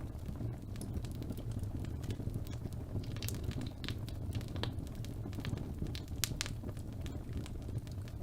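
Birch logs burning in a fireplace: a steady low rumble of flame with scattered sharp crackles and pops, a cluster of them in the middle and a few more near the end.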